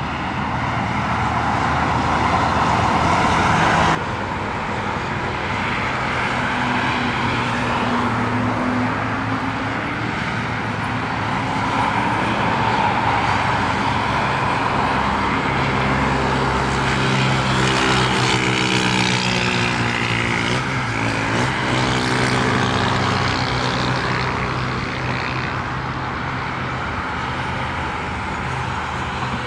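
Jet airliner engines running at an airport, a steady roar with a whine of several tones that slide in pitch around the middle, and an abrupt change in the sound about four seconds in.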